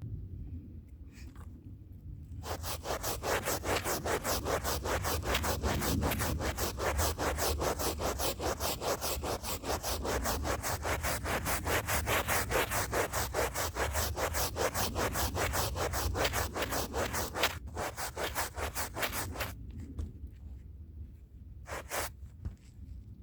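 A stiff hand brush scrubbing a rug, with fast back-and-forth strokes several times a second. The strokes start a couple of seconds in and stop near the end, leaving a few last single strokes.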